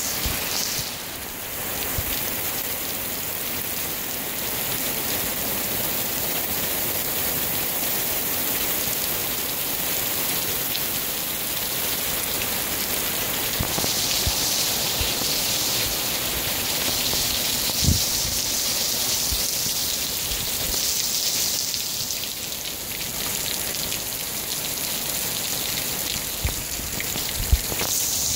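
Heavy rain pouring down, a steady hiss, with a few dull thumps, one about two-thirds of the way through and another near the end.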